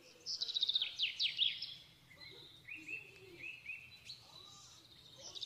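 A songbird singing: a fast run of high notes, each falling in pitch, then a few shorter chirps, with the same phrase starting again at the end.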